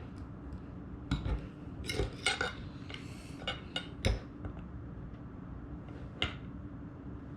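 Cutlery clinking and scraping against a plate in a string of sharp, irregular knocks while trying to pry stuck, chilled filling off it, over a low steady hum.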